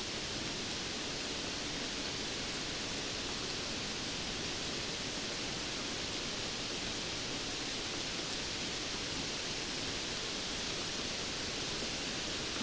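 Steady rainfall: a dense, even hiss with no single drops, thunder or gusts standing out.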